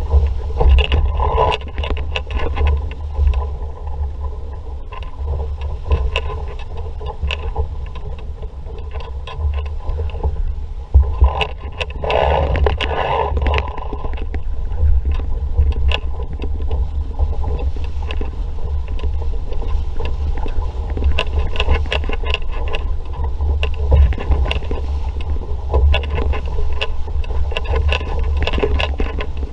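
A sailing dinghy under way in a strong breeze: wind buffeting the microphone as a constant low rumble, with water rushing and splashing irregularly against the hull, louder for a few seconds near the middle.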